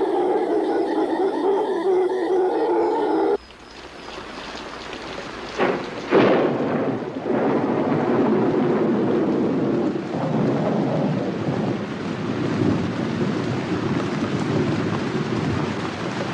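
A steady, low droning sound cuts off suddenly about three seconds in. Two sharp claps of thunder follow, and then heavy tropical rain falls steadily.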